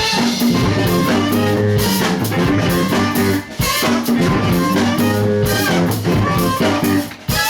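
Live band playing a song: guitar and bass over a drum kit keeping a steady beat, with short breaks in the playing about halfway through and again near the end.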